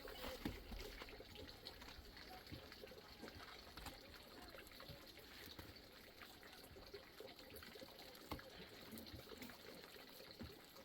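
Faint trickling water, with small scattered ticks and clicks.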